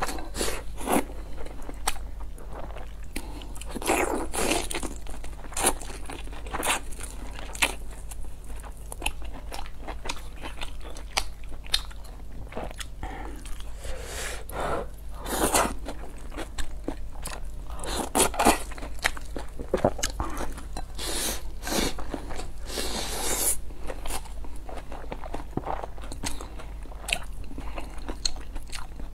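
Close-miked chewing and mouth sounds of a person eating rice with a stir-fried topping: irregular wet smacks and bites, over a steady low hum.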